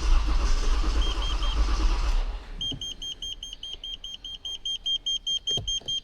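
Toyota Avalon's starter cranking the engine, which does not catch although fuel pressure is present: a no-start later traced to water in the gasoline. The cranking stops about two seconds in, and a high electronic beep then repeats about four times a second.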